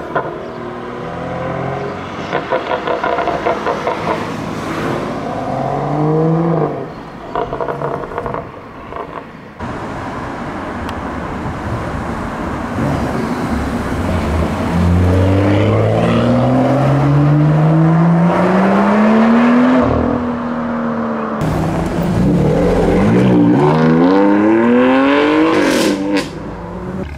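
BMW M performance car engines revving and accelerating, across several short clips. Short rev blips in the first several seconds, then one long pull rising steadily in pitch for about six seconds from about halfway, and more hard revving near the end.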